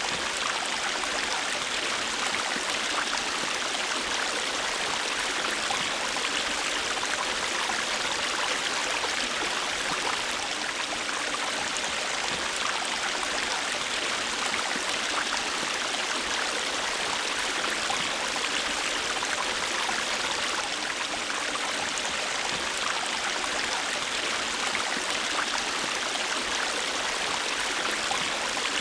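River water flowing steadily over rocks: an even rushing hiss with many small splashes and gurgles, unchanging throughout.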